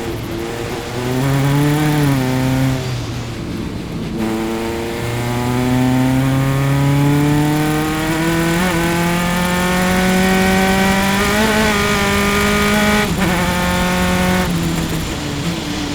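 Single-seater formula race car's engine heard onboard at racing speed. After a couple of brief lifts early on, it pulls hard with the pitch climbing steadily for about eight seconds, then drops sharply as the driver lifts and shifts down near the end.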